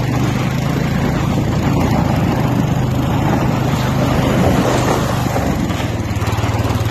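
A vehicle engine runs steadily under a dense rushing noise of snow and wind while it tows a sled. About five seconds in, the engine note drops a little lower.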